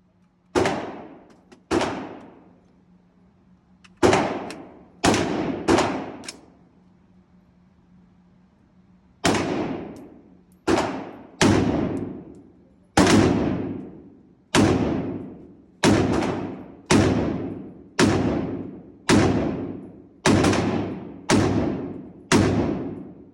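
AR pistol fired in single shots, about seventeen in all, mostly around one a second with a few longer pauses. Each report is sharp and trails off in a long echoing tail.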